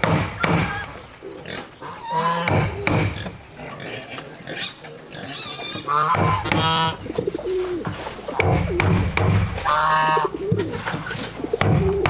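Pigeons cooing, with other higher, wavering animal calls and a few sharp knocks.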